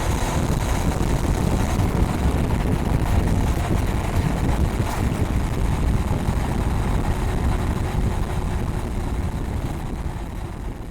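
Honda Rebel 500's parallel-twin engine on its stock exhaust while riding, under heavy wind rush on the microphone. It fades gradually near the end.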